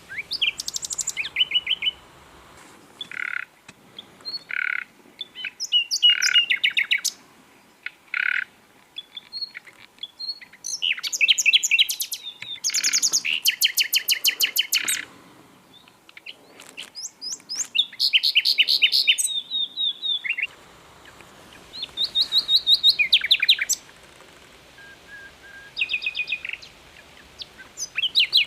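Common nightingale singing: short varied phrases of fast repeated notes and trills, separated by brief pauses. Between the phrases come a few long, low, pure whistled notes.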